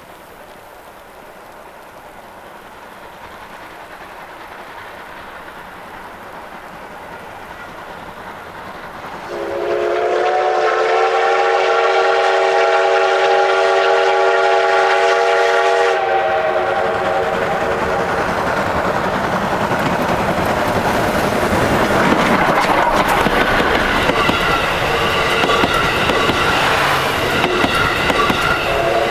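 Steam locomotive drawing nearer and growing louder, then sounding a long, multi-note chime whistle for about six seconds from about nine seconds in. The train then passes close by with heavy rolling rumble and wheels clattering over the rail joints, with higher ringing tones near the end.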